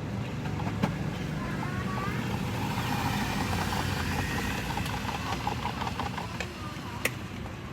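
A motor vehicle passing on the road, its engine and tyre noise swelling and then fading. There is a sharp click about a second in and another near the end.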